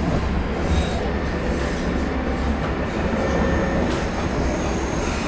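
KVB B80D Stadtbahn car running along the track: a steady low rumble of wheels on rail with faint whining tones from its retrofitted traction converter and original motors. There is one sharp click about four seconds in.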